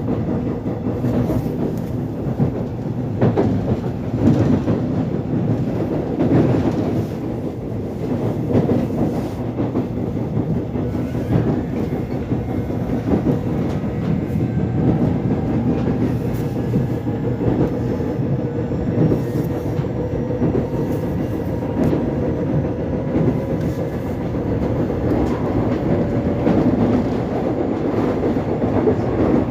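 Korail Line 1 express commuter electric train running between stations, heard from inside the carriage: a steady rumble of wheels on the track with scattered rail-joint clicks. In the second half a faint tone slowly rises in pitch.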